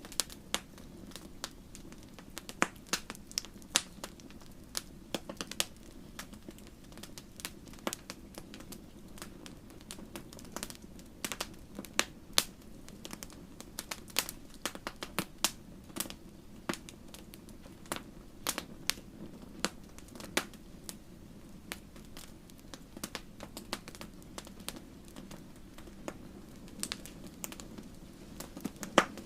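Wood fire burning in a fireplace, with irregular crackles and sharp pops over a steady low rumble of the flames.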